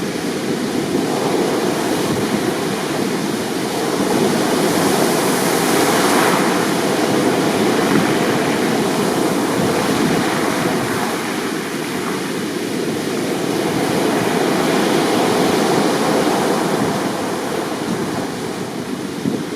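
Heavy surf from a rough sea: a continuous rush of breaking waves that swells louder and eases off every several seconds.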